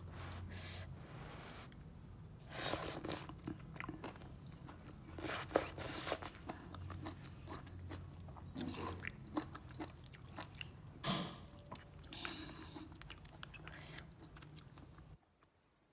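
Close-miked eating sounds of a person chewing a mouthful of curry instant noodles, with irregular wet bursts of mouth noise. The sound cuts off abruptly near the end.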